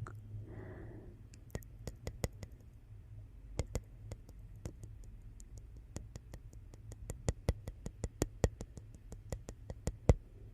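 Wood fire in a fireplace crackling: irregular sharp pops and snaps, some clustered in quick runs, over a faint low rumble of burning.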